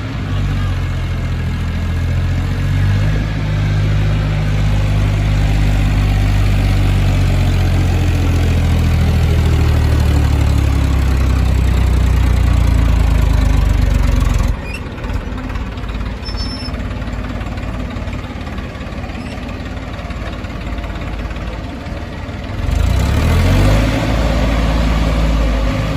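Massey Ferguson 1035 tractor's three-cylinder diesel engine running hard under heavy load, hauling a loaded soil trolley up out of a mine. About halfway through the sound drops abruptly to a rougher, quieter engine note. Near the end the engine revs up again.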